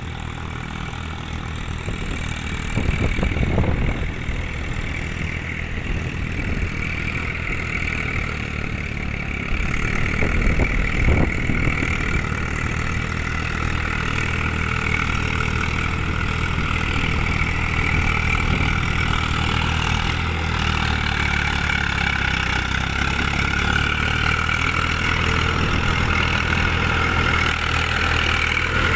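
Eicher 380 tractor's diesel engine running steadily, with brief louder surges about three seconds and about eleven seconds in.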